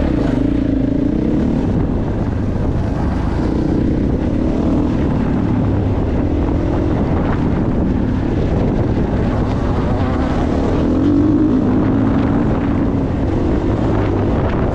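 Motocross bike engine running, its pitch rising and falling as the throttle is opened and closed.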